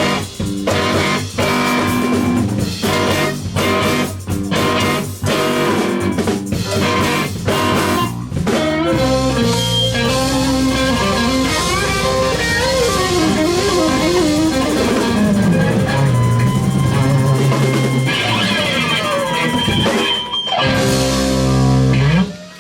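Live rock band with electric guitars and drum kit playing the end of a song. It opens with repeated short, stabbed chord hits for about eight seconds, moves into held chords with a bending lead guitar line, and closes on a final chord that cuts off sharply.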